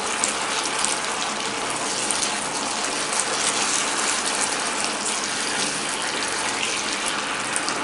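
Thick cornflour gravy with crisp fried bread cubes sizzling in a hot kadhai as it is stirred with a wooden spatula: a steady hiss with light crackles.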